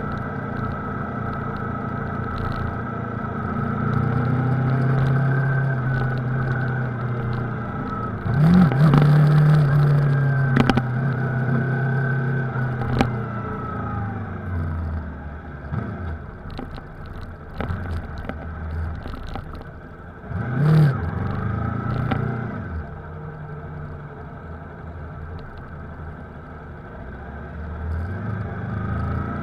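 Yamaha R3's parallel-twin engine running under the rider, its note rising and falling with the throttle. Two sharp revs, about eight and twenty seconds in, are the loudest moments, and the engine settles to a lower, quieter note near the end.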